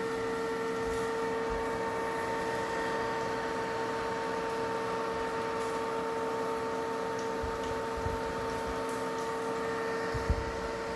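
Small DC cooling fans of a Peltier-element mini fridge running with a steady, even-pitched whine and hum. The owner calls the noise far too loud. There is a brief low knock about ten seconds in.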